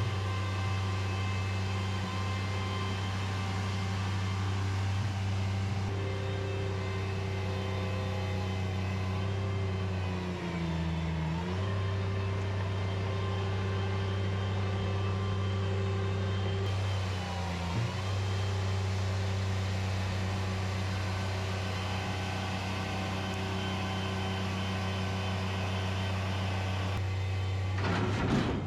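Bobcat MT100 mini track loader's diesel engine running steadily. Its pitch sags twice, briefly, as it comes under load. A short clattering crash comes near the end.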